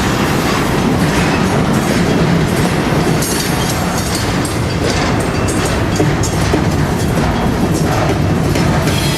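Train rolling past with a loud, steady rumble, its wheels clicking over the rail joints.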